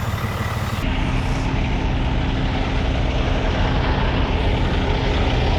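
Semi truck's diesel engine idling: a steady low drone with a hum, getting louder about a second in.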